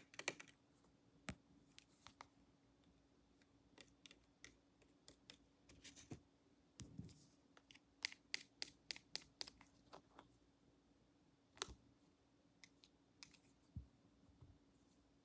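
Faint, scattered snips and clicks of scissors worked close to the microphone, with a quick run of about six snips about eight seconds in.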